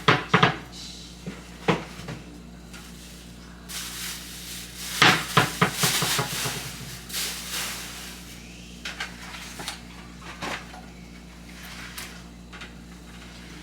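Groceries and kitchen containers being handled and put away: scattered knocks and clicks of items and cupboard doors, with a denser run of clatter about five seconds in.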